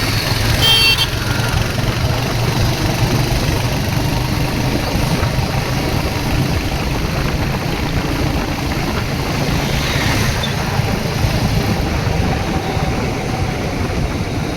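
Royal Enfield Hunter 350's single-cylinder engine running steadily under way, with heavy wind and road noise. A brief high beep sounds about a second in.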